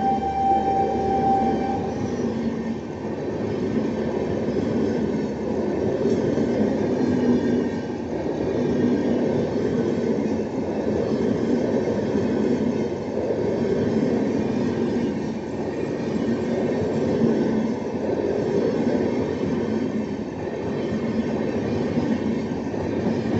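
Passenger coaches of an express train rolling past on the track: a steady rumble and clatter of wheels on rail, swelling and easing every couple of seconds as the bogies go by. A held train horn note ends about two seconds in.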